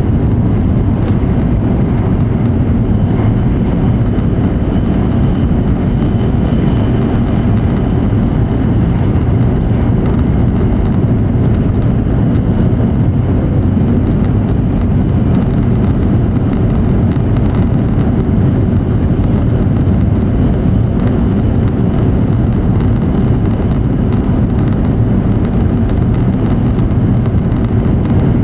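Steady running noise of an E7 series Shinkansen travelling at speed, heard from inside the passenger cabin: a constant deep rumble with a faint hiss above it.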